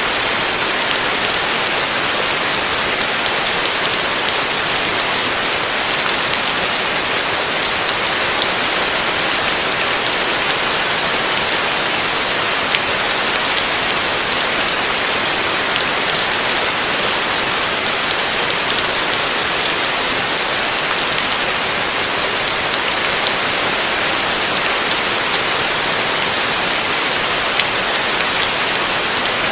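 Heavy rain falling steadily on a roof: a dense, even hiss with faint scattered drop ticks.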